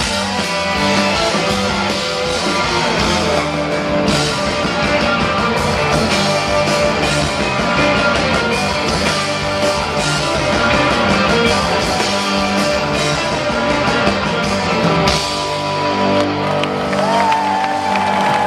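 Live rock band playing a loud guitar-driven jam with bass and drums. Near the end a single held high note bends up and sustains over the band.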